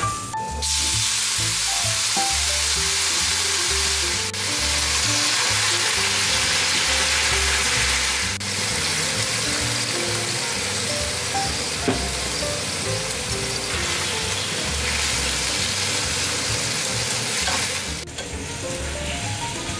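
Sliced bitter melon sizzling as it is stir-fried in a frying pan, first in sesame oil and then with soy sauce, mirin and sugar as the liquid cooks off. The sizzling drops away near the end, and light background music plays throughout.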